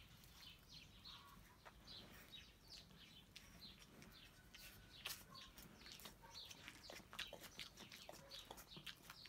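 Faint small birds chirping, short high falling chirps about two or three a second, with scattered light clicks and knocks.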